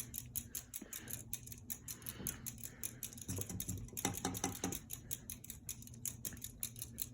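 Seagull Lighting ceiling fan running slowly, with an even rapid clicking about five times a second over a low hum; the owner takes the lack of speed for a bad capacitor. A brief low pitched hum rises in the middle.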